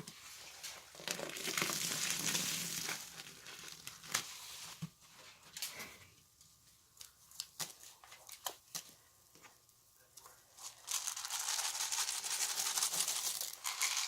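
Wet, soap-laden material squeezed by hand, giving a crackling, squelching hiss. Two long squeezes near the start and near the end, with scattered small clicks and squishes between.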